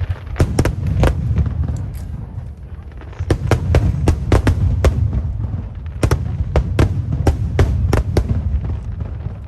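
High-altitude aerial fireworks shells bursting in rapid volleys of sharp bangs over a deep, rolling rumble, with short lulls between the volleys.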